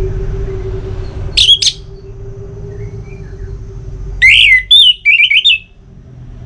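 Orange-headed thrush calling: a quick pair of sharp notes about a second and a half in, then a louder run of rapid, warbled notes near the end, over a steady low hum.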